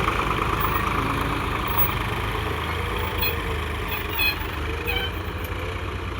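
Swaraj 744 XT tractor's diesel engine running steadily with a low, even drone. A few short clicks are heard around three, four and five seconds in.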